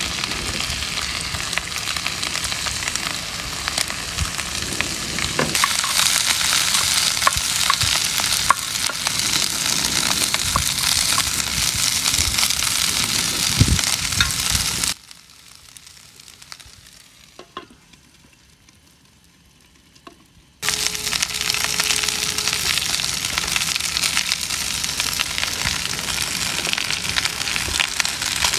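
Chunks of pork and corn on the cob sizzling as they fry in a wok on a portable gas stove, with scattered clicks and scrapes from a wooden spatula stirring them. About halfway through, the sizzling drops away for several seconds, then comes back as strong as before.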